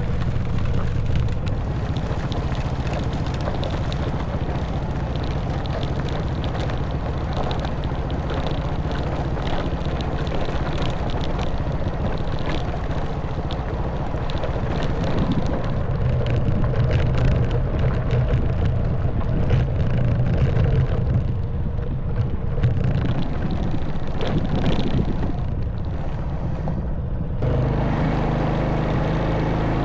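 Honda Wave 110cc single-cylinder four-stroke motorbike engine running under way, with wind noise and many small knocks and rattles from riding over a rough stone track. Near the end the rattling eases and the engine note turns steady and even.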